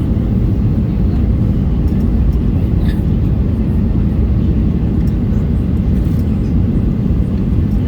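Steady low roar inside the cabin of a Boeing 737-800, heard from a window seat over the wing: engine and airflow noise with no change in pitch or level. A few faint ticks about three seconds in.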